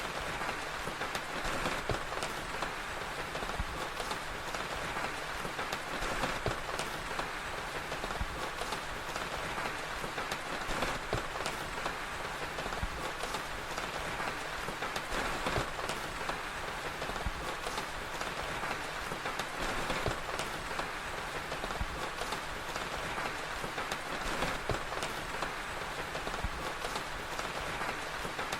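Steady rain with scattered crackles from a fire.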